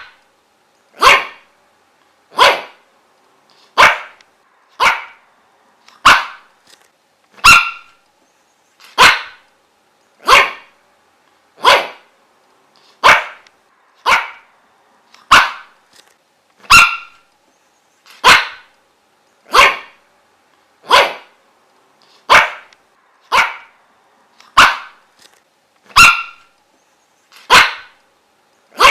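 A dog barking over and over, one short sharp bark at a time, evenly paced at about one bark every second and a half, with silence between barks.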